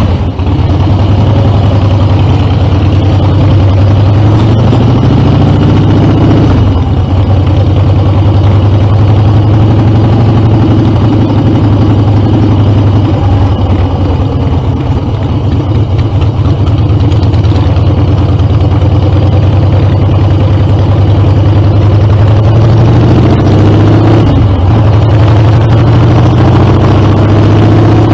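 Harley-Davidson Dyna's V-twin engine idling loudly through Screamin' Eagle mufflers just after starting, its pitch shifting slightly a few times.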